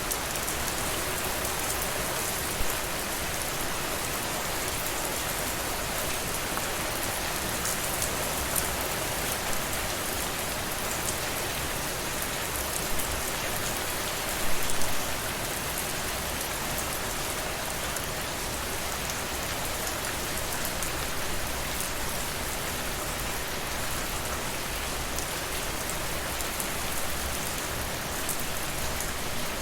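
Steady rainfall, a dense even hiss with individual drops pattering on a surface, and a few louder splashes of drops about halfway through.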